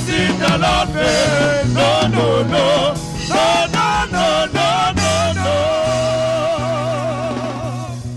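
Live gospel praise music: voices singing over a band with drum kit and bass. The singing ends on one long held, wavering note while the music fades down.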